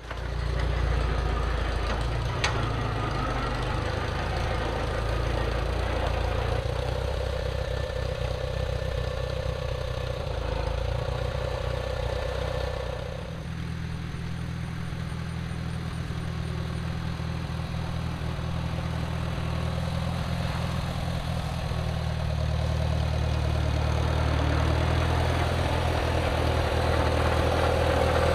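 Farm tractor engine coming to life and running steadily. A whine rides on it for a while, the engine note changes about 13 seconds in, and it then grows gradually louder toward the end.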